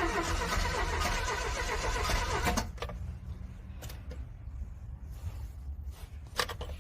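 Starter motor cranking a cold car engine that does not catch, stopping suddenly about two and a half seconds in. Then a pause with a low rumble and a few sharp clicks.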